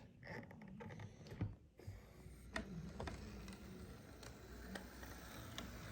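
Faint handling noise: a few scattered light clicks and taps over a low steady hum.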